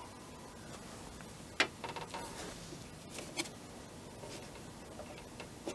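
A few light clicks and taps over quiet room tone, the sharpest about one and a half seconds in, with smaller ones later: small objects being handled on a work surface.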